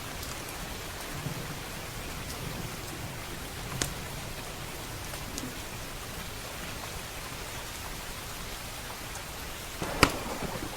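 Steady rain with a few scattered sharp crackles from a wood fire. One sharper snap comes about four seconds in, and the loudest near the end.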